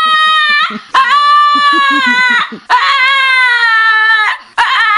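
Small dog howling in long, high-pitched, screaming wails, one after another with short breaths between, each wail sagging slightly in pitch as it ends.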